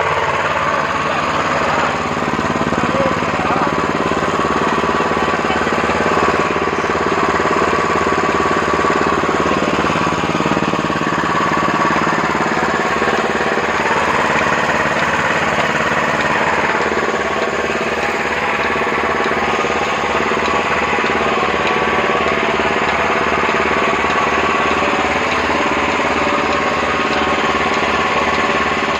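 A milking machine's 6.5 hp petrol engine runs steadily, driving the vacuum pump, with a regular low pulsing throughout.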